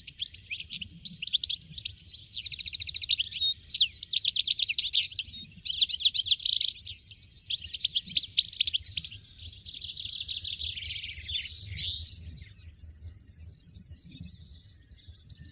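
European goldfinch singing: a fast, continuous twittering of rapid trills and chirps.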